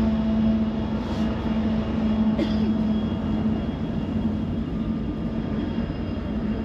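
A freight train's diesel locomotives running close by: a loud, steady low drone with rumble and noise beneath it.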